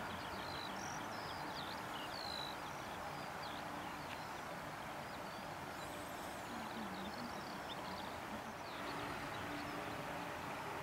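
Small birds chirping, many short high notes scattered through, over a steady, even background rush.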